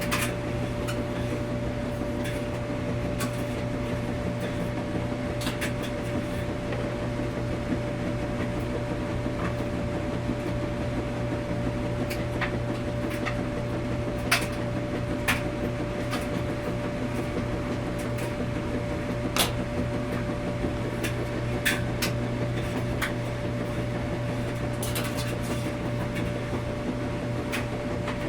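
Washing machine running at a steady level, a low hum with a thin steady whine above it, with scattered light clicks and knocks at irregular intervals.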